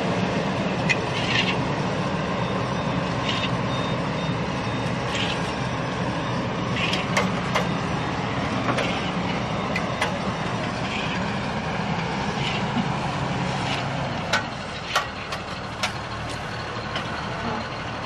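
Heavy vehicle engine running steadily, with sharp clanks and knocks throughout and a faint intermittent high beeping a few seconds in.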